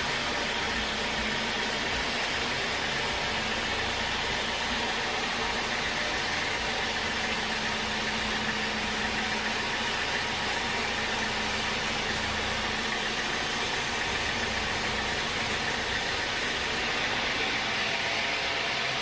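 Sawmill machinery running steadily: a constant motor noise with a faint steady hum.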